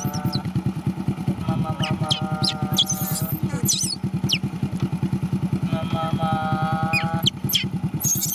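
Small motorcycle engine idling with a steady, rapid putter. Over it come short high squeaks and a long, steady cry at one pitch, heard three times.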